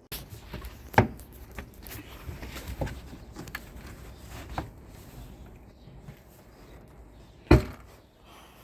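Scattered knocks and light clatter: a sharp knock about a second in, smaller ones between, and a louder knock near the end.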